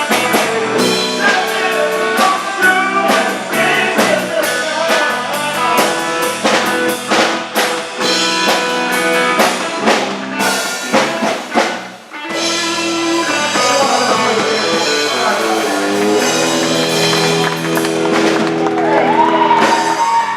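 Live rock band playing, with electric guitar and drum kit keeping a steady beat. About twelve seconds in the drums stop and held chords ring on, a song's closing.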